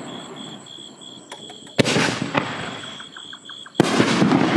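Two firework canister shells bursting overhead about two seconds apart, each a sharp bang followed by a long rolling echo, with a few faint crackles between them.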